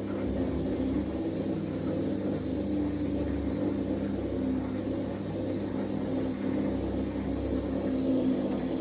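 Fisher & Paykel MW059NZ washing machine running mid-cycle during a darks wash: a steady low motor hum with a low rumble that comes and goes.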